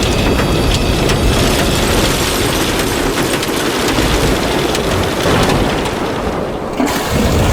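Storm: heavy rain pouring with deep rumbling thunder, the high hiss dropping away briefly near the end before it returns.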